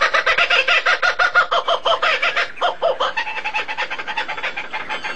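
Rapid bird-like calls, about ten pitched notes a second, growing quieter in the second half.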